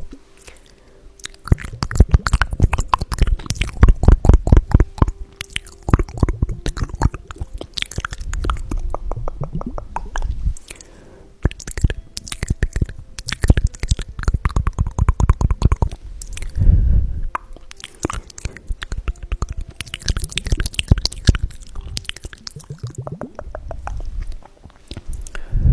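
Close-miked ASMR triggers with small glass ampoules: bursts of rapid clicking, tapping and crackling lasting a few seconds each, with soft low thuds in between.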